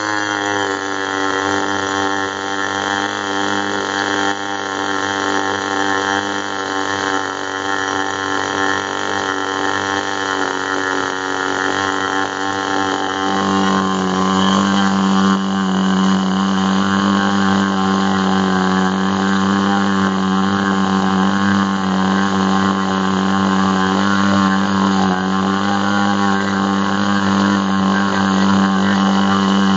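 ASP 25 two-stroke model glow engine with a 10x6 propeller, running flat out on a test stand at a steady high pitch, fuelled with 10% nitro. About halfway through its tone thickens and it gets slightly louder.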